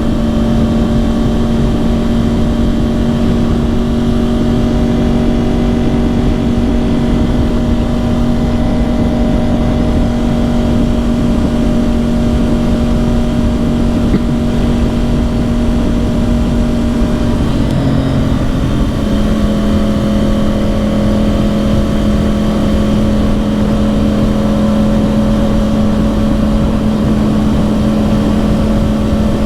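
Yamaha R1 crossplane inline-four with dual Yoshimura exhausts, heard from on the bike at a steady cruise, over a haze of wind and road noise. About eighteen seconds in the engine note breaks briefly, like a gear change, and settles at a slightly lower steady pitch.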